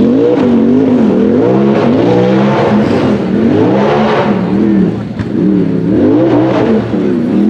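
Side-by-side buggy engine revving hard, its pitch rising and falling about once a second as the throttle is worked, with brief dips in loudness.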